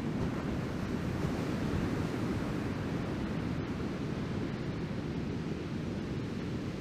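Breaking surf from a typhoon swell, a steady wash of noise with wind rumbling on the microphone underneath.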